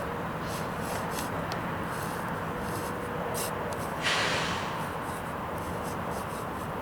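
Steady rumble of trucks working at a distant logistics yard at night, with a low engine hum and scattered faint clicks. About four seconds in comes a short, sudden hiss that fades away.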